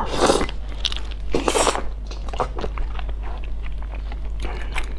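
A mouthful of glazed grilled eel being bitten and chewed close to the microphone: two loud bites in the first two seconds, then steady chewing with small mouth clicks.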